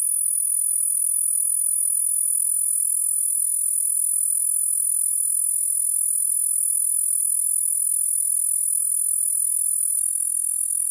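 A steady, high-pitched chorus of chirring insects, such as crickets, with a click about ten seconds in where the sound shifts slightly.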